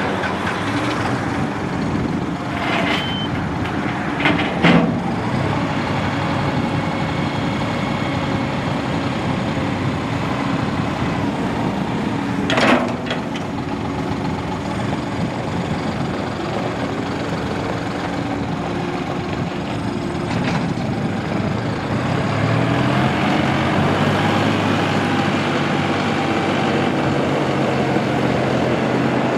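John Deere 5055E tractor's three-cylinder turbo diesel running, with a few short knocks and clicks. About two-thirds of the way through the engine speed rises and it runs louder.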